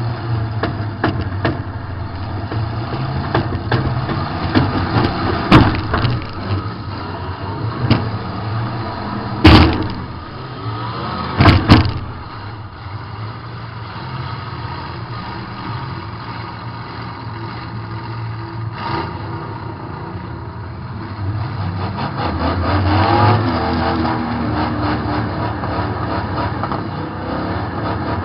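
Demolition derby car's engine running and revving, heard from inside the car, with three loud crash impacts in the first half. Near the end the engine revs up harder.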